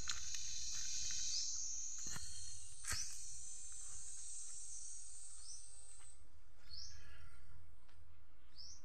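Outdoor rural ambience: a bird repeats a short rising chirp every second or so over a steady high insect buzz, which fades out about six seconds in. Two sharp clicks come around two and three seconds in.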